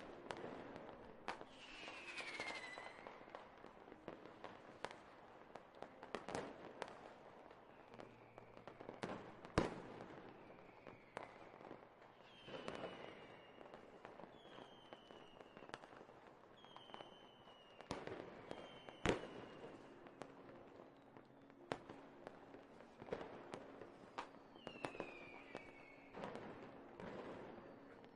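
Fireworks: scattered sharp bangs and crackles, with several whistling rockets whose whistles fall in pitch, played at a low volume.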